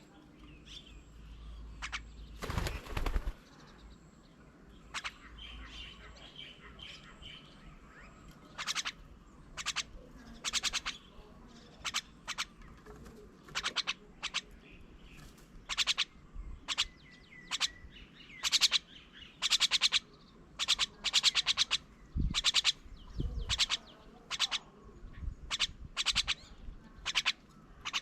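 Birds calling with short, harsh, rasping calls, often in pairs, coming more often in the second half. There is a brief thump about two and a half seconds in.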